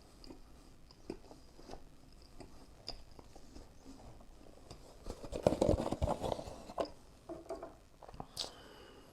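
Close-miked chewing and mouth sounds of a person eating: scattered wet clicks and smacks, with a denser, louder run of chewing about five to six seconds in.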